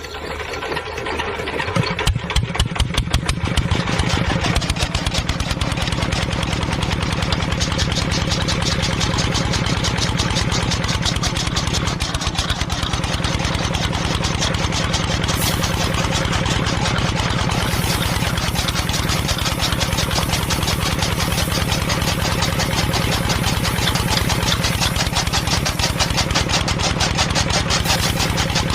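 An engine starting up and then running steadily with a fast, even beat, building in loudness over the first few seconds.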